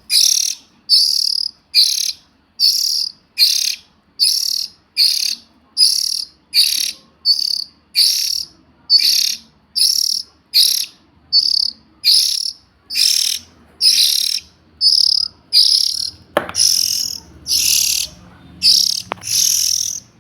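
Young oriental magpie-robin calling, short harsh high notes repeated evenly, nearly two a second. A couple of sharp knocks sound in the last few seconds.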